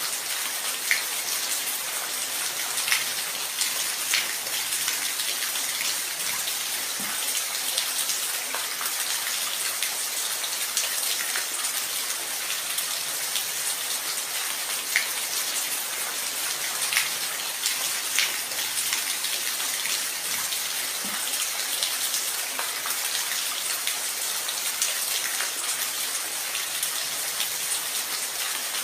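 Steady rainfall, an even hiss with scattered close drops ticking sharply on a surface.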